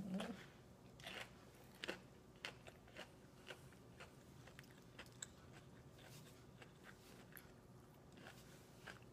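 A person chewing and crunching food close to the microphone, faint, with irregular crisp crunches roughly once a second.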